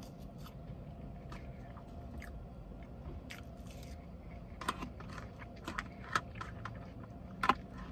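Close-miked chewing and biting of someone eating pancakes and fries, a scatter of short wet mouth clicks and smacks over a steady low hum.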